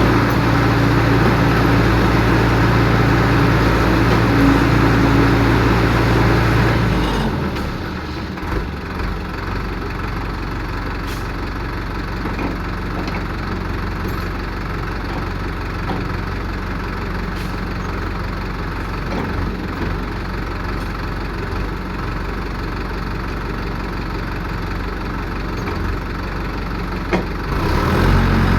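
Diesel engine of a piling rig running hard, easing down to a quieter idle about seven seconds in, with a few faint knocks. It picks back up near the end.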